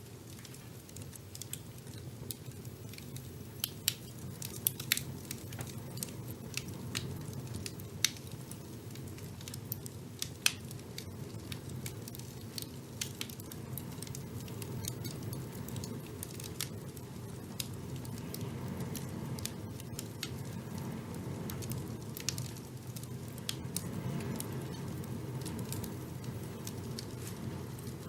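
Wood fire burning in a fireplace: a steady low rush of flame with irregular sharp crackles and pops, the loudest of them in the first half.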